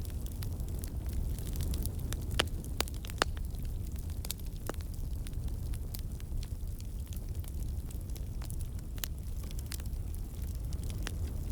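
A wood campfire burning: a steady low rumble of flame with frequent sharp crackles and pops, two louder pops a little under a second apart about two and a half seconds in.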